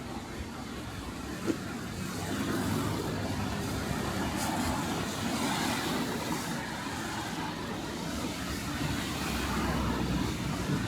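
Street traffic noise: cars passing steadily, growing a little louder about two seconds in, with one sharp click about one and a half seconds in.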